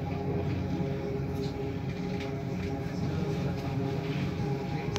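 Delhi Metro electric train running along an elevated track, heard from inside the carriage: a steady rumble with a constant hum.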